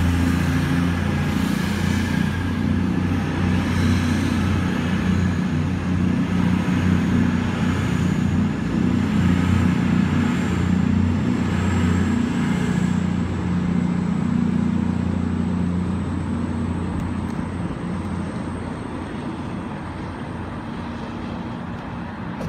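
Virgin Trains class 221 Super Voyager diesel multiple unit pulling out of the station, its underfloor diesel engines running with a steady low drone that fades away in the last several seconds as the train draws off.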